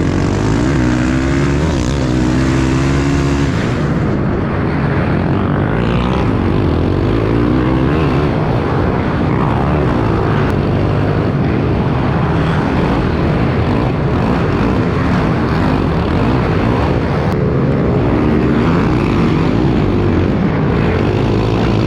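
Several small pit bike engines running and revving on the track, their pitches rising and falling as the riders work the throttle.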